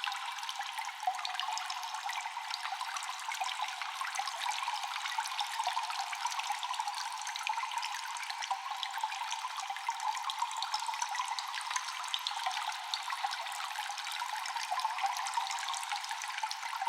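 Water dripping constantly in a cave: many small drops falling in quick succession, echoing, over a steady trickle. The sound is thin, with no low rumble.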